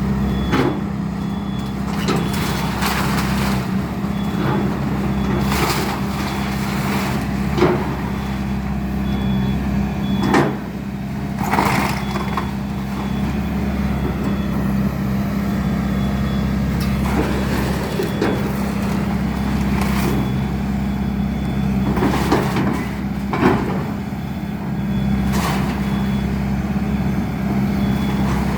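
Excavator's diesel engine running steadily, with irregular sharp cracks and crashes of a house's structure being broken up, about a dozen of them.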